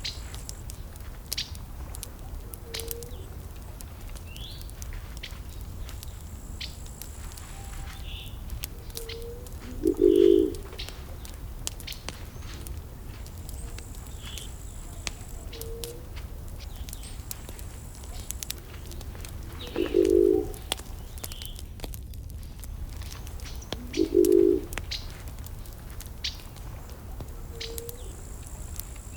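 Wood fire burning with scattered sharp crackles and pops over a steady low rumble. Three short, loud, low coo-like calls come several seconds apart, with a few faint high bird chirps.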